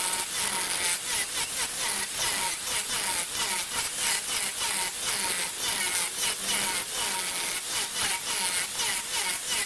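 Wood lathe turning: a cutting tool scraping into the spinning wooden workpiece, making a steady run of rough rasping strokes over a faint constant whine.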